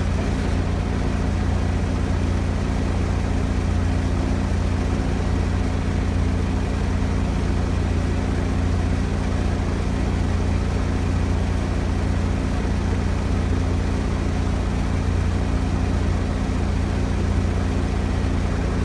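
Large engine idling steadily, a low, even drone that does not change in pitch or loudness.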